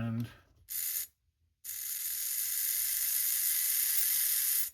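Tiny RC car drive motor, run through its ESC off a 9-volt supply, gives a brief spin under a second in, stops, then runs steadily at speed with a high, hissing whir from about a second and a half in. It is a first bench test showing the motor works.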